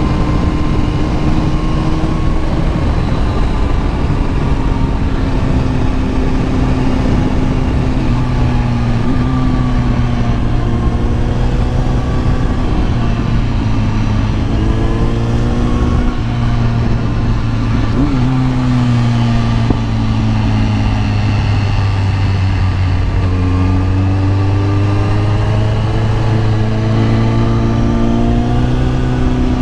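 Kawasaki ZX-10R inline-four motorcycle engine running under way, its revs rising and falling several times, with a steady rush of wind noise.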